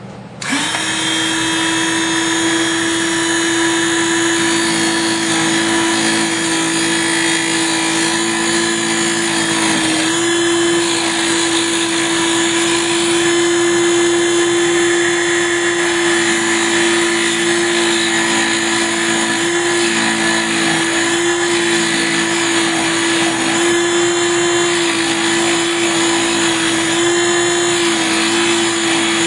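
Small hobby mini lathe motor running, spinning a wooden dowel being turned into a keg shape, with a steady hum. It starts about half a second in.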